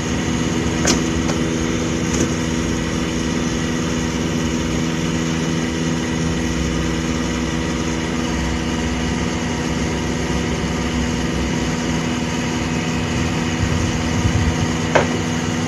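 Steady electric machine hum with a few constant tones, broken by a couple of light clicks early on and one sharp click near the end.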